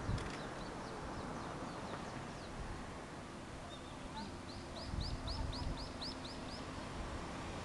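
A small bird calling: a quick run of about ten short, high chirps, about four a second, past the middle, with a few fainter chirps earlier. Under it is a steady outdoor hiss.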